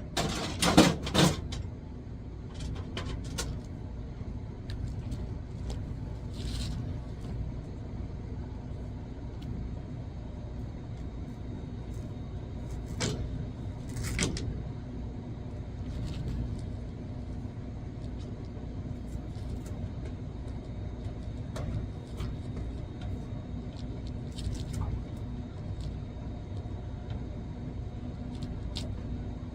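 A steady low mechanical rumble with a faint steady hum, with a few sharp knocks in the first second or so and two more clicks about halfway through.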